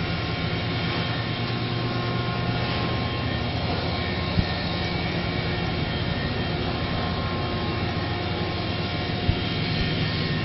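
Steady engine drone: a constant low hum with a hiss above it, unchanging throughout.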